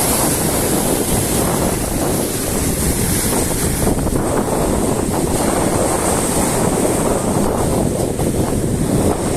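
Strong sea waves breaking on the shore, a steady loud rush of surf, with wind buffeting the microphone.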